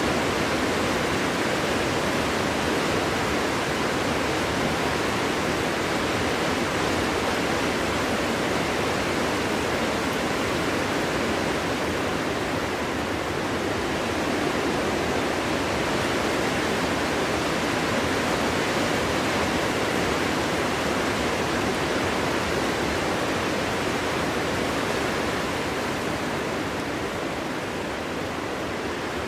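Steady rushing winter wind with no gusts or breaks, easing slightly near the end.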